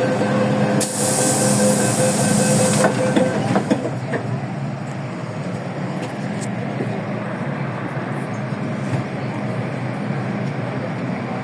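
Inside a Hong Kong MTR M-Train car: the train's steady hum, with a loud hiss of air about a second in that lasts about two seconds, then a few sharp clicks, after which the running noise settles lower.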